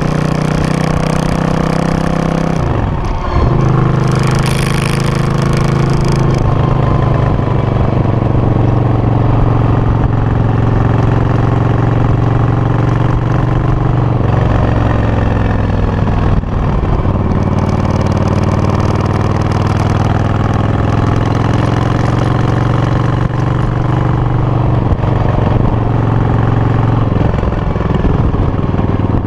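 Suzuki VS800 motorcycle's V-twin engine running through its exhaust, mostly at a steady idle, with the revs blipped up and down a few times.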